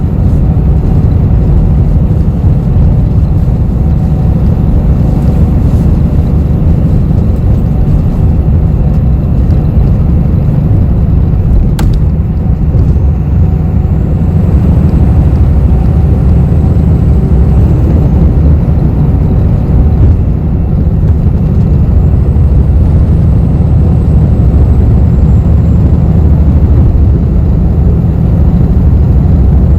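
Inside a moving city bus: a steady low rumble of engine and road noise. A single sharp click comes about twelve seconds in, and a faint high whine rises and falls twice.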